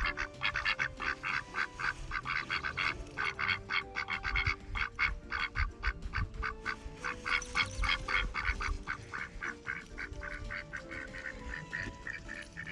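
An animal calling in a rapid, even run of short calls, about four or five a second.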